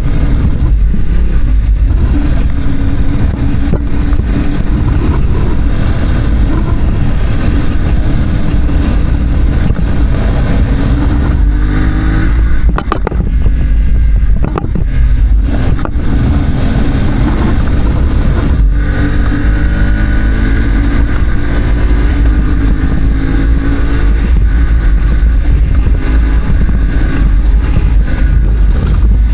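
Adventure motorcycle engine under hard throttle while riding, its pitch climbing and then dropping back several times as the rider shifts or lifts off. A heavy low rumble of wind buffeting sits under it.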